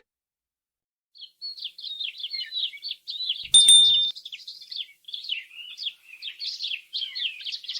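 Small songbirds chirping in quick, high, repeated calls, starting about a second in. About three and a half seconds in, a brief louder sound with a steady high tone cuts across the chirping for about half a second.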